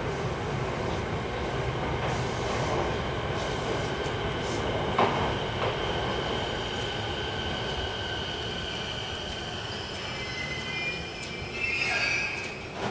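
JR East MUE-Train electric multiple unit running into the station and slowing to a stop. Under a steady rumble there is one knock of the wheels over a rail joint, then a long high steady squeal. A louder burst of wheel and brake squeal comes near the end as the train comes to rest.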